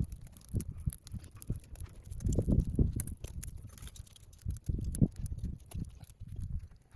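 Wood fire crackling in a Snow Peak fire pit, with scattered sharp snaps over irregular low rumbling swells, the strongest about two and a half seconds in and again about five seconds in.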